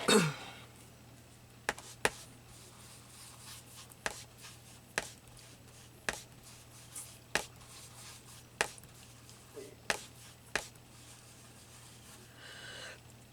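Irregular sharp clicks and taps from hand work on a paper collage, roughly one a second, each one short and isolated.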